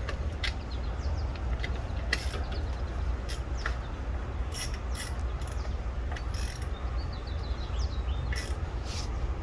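Ratchet wrench clicking in short, irregular runs as a spark plug is tightened down, over a steady low hum.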